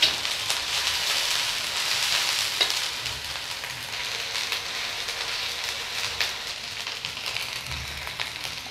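Sliced onions and whole spices sizzling in mustard oil in a steel wok, stirred with a metal spatula that scrapes and clicks against the pan now and then.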